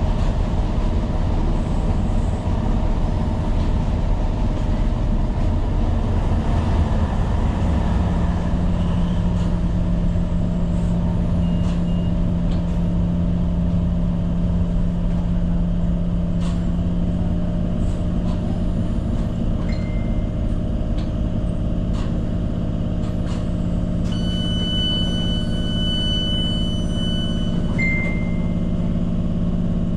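Tyne & Wear Metro train heard from the cab: a continuous low rumble with a steady low hum that sets in about eight seconds in. Near the end, a high steady electronic tone sounds for about four seconds, with a few short high tones before and after it.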